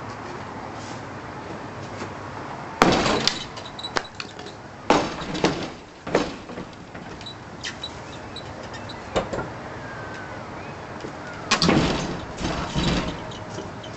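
Demolition of a porch roof: a series of loud crashes and bangs, about six, some with a rattling tail, as the framing and roofing are knocked down.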